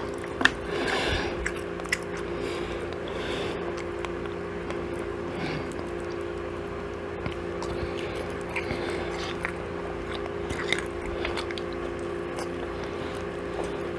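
A person chewing and biting into chicken and waffles close to the microphone, with scattered small crunches and mouth clicks, over a steady low hum.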